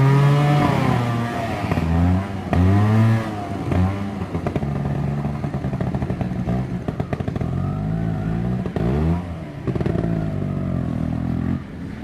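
Trials motorcycle engine revved in a series of throttle blips, the pitch rising and falling again and again, with one long rev at the start and quicker, shorter ones later. The sound cuts off suddenly at the end.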